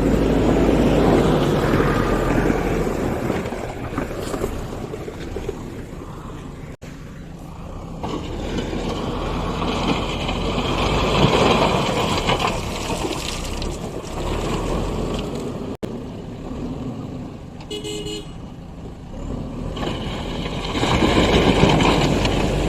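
Heavy construction vehicle diesel engine running and working under load, with a short horn toot about three quarters of the way through.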